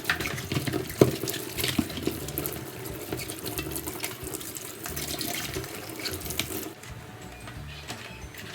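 Tap water running into a kitchen sink, with scattered clinks and knocks, the sharpest about a second in.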